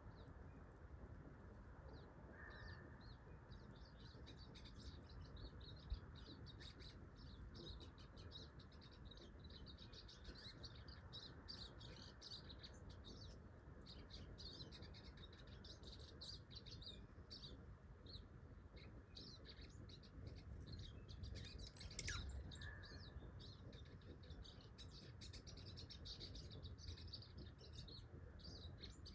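Small birds chirping faintly and continuously in quick, high twitters. About 22 seconds in, one louder call glides sharply down in pitch.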